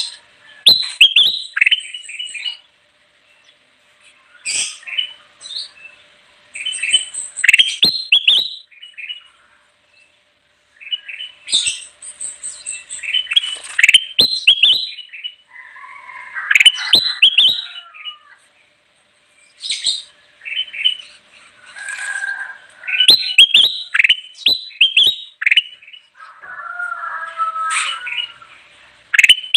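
Kutilang emas bulbul singing: bursts of quick, chirpy notes repeated every few seconds, with a lower warbling phrase near the middle and again near the end.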